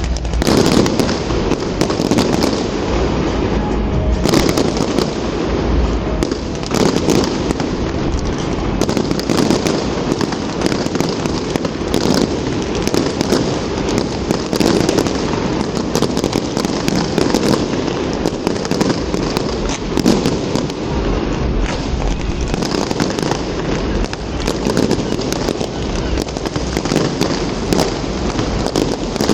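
Fireworks display: a continuous barrage of bangs and crackling, many reports a second, with deep booms underneath.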